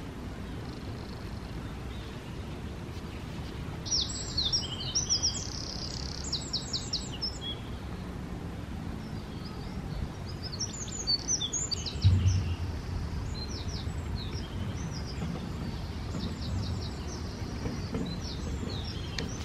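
Small birds singing in bouts of quick, high chirps and trills over a steady low background rumble, with a single low thump about two-thirds of the way through.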